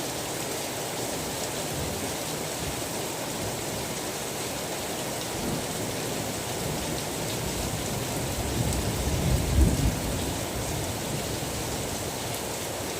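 Steady rain, with a low roll of thunder that swells about two-thirds of the way through and dies away.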